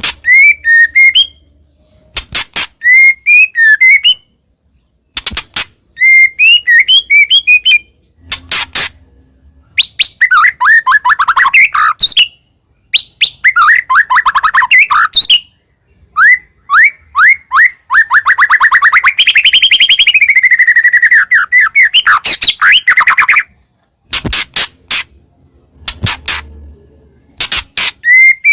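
White-rumped shama (murai batu) in full song: loud, varied phrases of whistles and fast trills broken by sharp clicks, with a long run of rapid repeated notes a little past the middle and short pauses between phrases.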